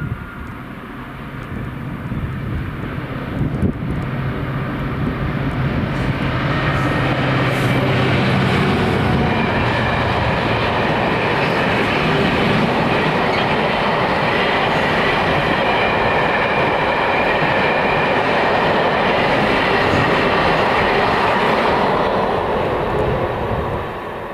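Freight train passing close by. A locomotive's low engine note comes first, then the loud steady rolling noise of the wagons going past, which drops away near the end.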